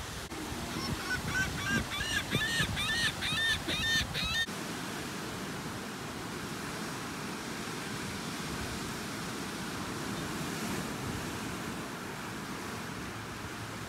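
A bird calling a quick series of about ten arched notes over breaking surf, cut off abruptly about four and a half seconds in. After that, ocean waves breaking steadily on the beach, with wind.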